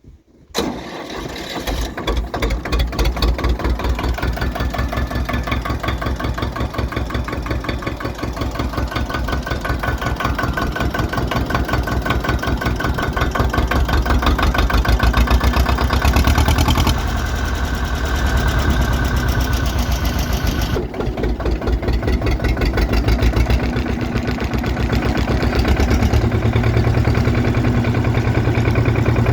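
1959 Renault D16 tractor's diesel engine starting about half a second in, then running with a rapid, even firing beat; its note shifts a few times later on.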